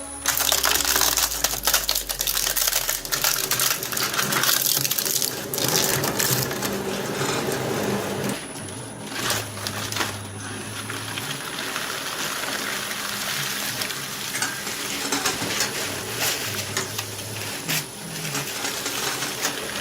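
Shredder running, its blades crunching and cracking plastic in a dense, uneven crackle with a low motor hum underneath.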